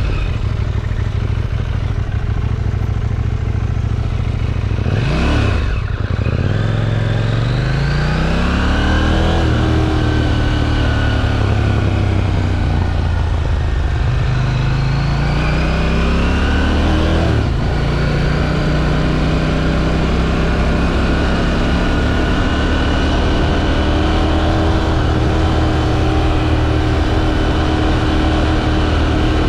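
KTM 790 Duke's stock-exhaust 799 cc parallel-twin engine under way. Its pitch climbs and drops as the rider works through the gears, with a quick blip about five seconds in and a short break for a gear change about seventeen seconds in. After that it holds a steady cruising pitch.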